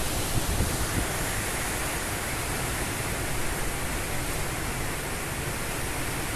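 Strong typhoon wind blowing steadily over a phone microphone: an even rush of noise with no letup.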